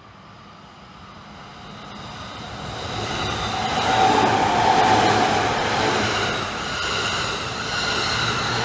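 Takasaki Line electric train approaching and running past a level crossing, its sound growing steadily louder over the first four seconds and then staying loud.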